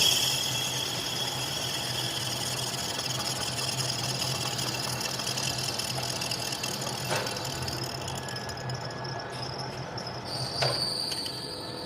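A metal-working machine tool running steadily with a constant low hum. A high thin whine at the start fades away over the first few seconds, and there are two short clicks, about seven and eleven seconds in.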